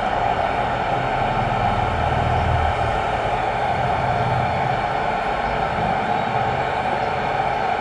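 Steady hiss of an amateur radio receiver's speaker, tuned to the 437 MHz satellite downlink with no signal coming through yet.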